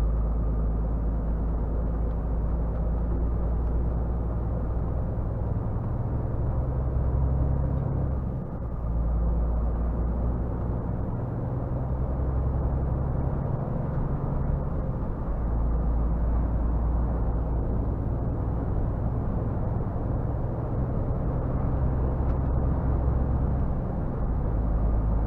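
Scania R450 truck's 13-litre six-cylinder diesel engine running as the truck drives slowly, with road noise. The engine note drops briefly about eight seconds in, and its pitch shifts a few times.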